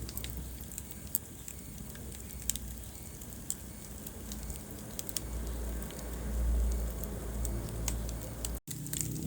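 Wood fire burning in a fireplace: a steady low rumble of flames with scattered sharp crackles and pops from the burning logs. The sound cuts out for an instant near the end.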